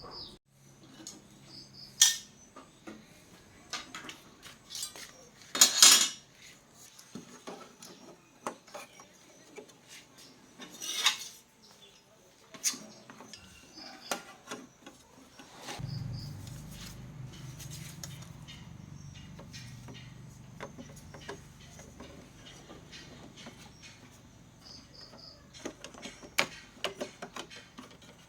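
Scattered clicks, knocks and metallic clinks of small tools and parts being handled. A low steady hum starts about halfway through and slowly fades.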